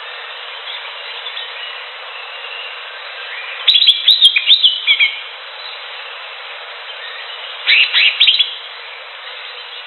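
Green leafbird (cucak hijau) song: two bursts of sharp, rapid whistled chirps, one about four seconds in and another about eight seconds in, over a steady background hiss.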